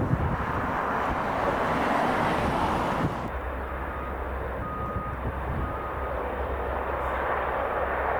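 Merlin HC.4 helicopter with three turboshaft engines, engines and rotors running with a steady rush. About three seconds in the sound changes: the hiss thins and a steady low rumble remains.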